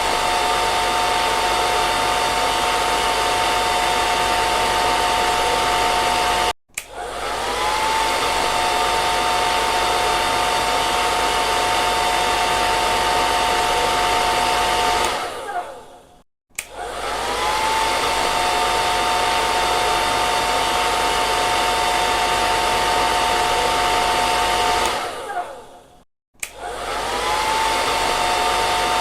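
Hair dryer running: a steady rush of air with a motor whine. It stops three times, once cut off suddenly and twice winding down, and each time starts again with a short rising whine that settles to a steady pitch.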